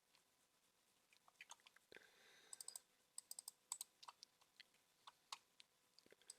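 Faint, irregular clicks of a computer mouse and keyboard, a dozen or more scattered over a few seconds.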